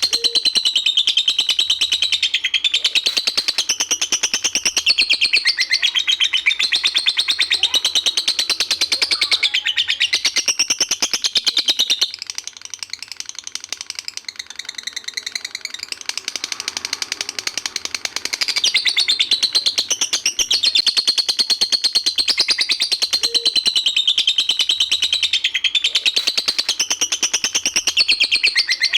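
Songbird song played as a tutoring recording for competition birds: a dense, rapid, continuous chatter of high notes that drops to a quieter, thinner passage from about twelve to eighteen seconds in, then comes back full.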